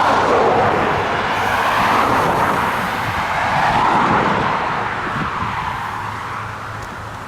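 Road traffic passing: a few cars go by one after another, their tyre and engine noise swelling and fading, then dying away near the end.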